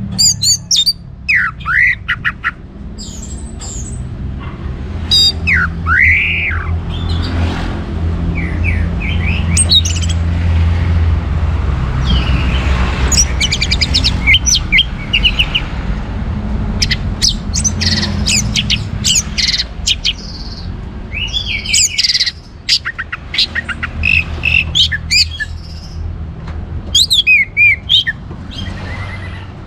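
Orange-headed thrush singing: a string of varied phrases of sweeping whistles and fast chattering notes, with a steady low hum underneath.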